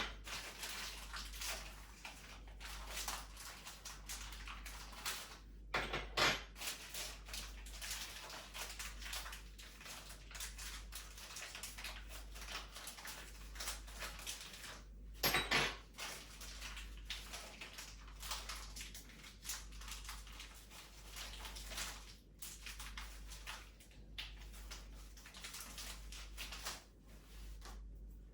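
Plastic wrappers crinkling and rustling as small metal hooks are unwrapped and handled, with scattered clicks and clinks and a couple of louder crackles about 6 and 15 seconds in.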